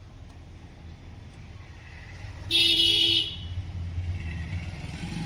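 A vehicle horn sounds once, a steady two-tone blast of under a second about halfway through, over the low rumble of passing road traffic.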